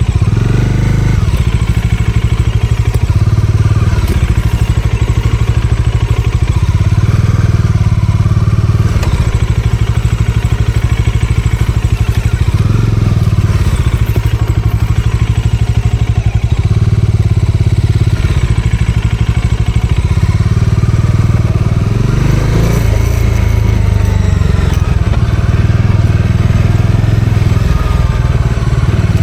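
Bajaj Dominar 400's single-cylinder engine running steadily under way. The revs briefly rise and fall about twenty-two seconds in.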